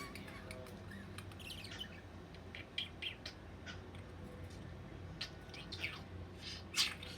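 Pet budgie chirping: a string of short, separate chirps and chatter with gaps between them, the loudest a little before the end.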